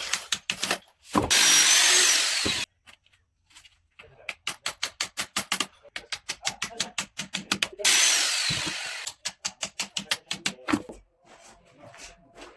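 Power drill running in two bursts of about a second and a half each, with quick runs of sharp clicks and taps between them.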